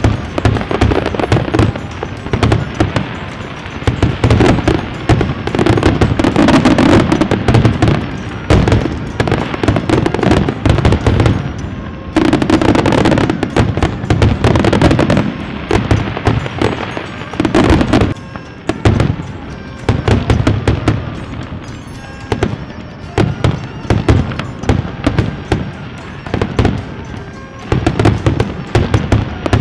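Fireworks going off in a rapid, continuous barrage of bangs and crackling, with music playing underneath.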